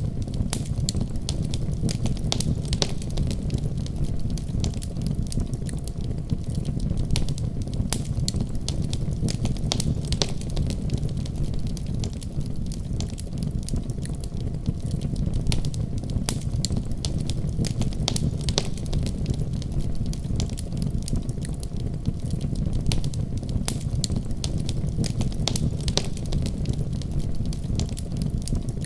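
Wood fire burning in a fireplace: a steady low rumble of flames with frequent sharp crackles and pops, several a second.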